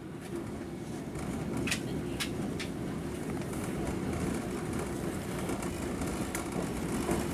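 Passenger train rolling into a station, heard from inside the carriage: a steady rumble of wheels on rails, with a few sharp clicks.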